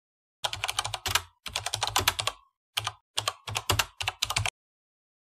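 Computer keyboard typing sound effect: rapid key clicks in about four quick runs with short breaks, starting about half a second in and stopping suddenly about a second before the end.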